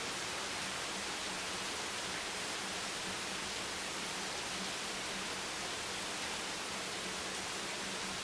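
Steady rain, an even hiss without distinct drops or thunder.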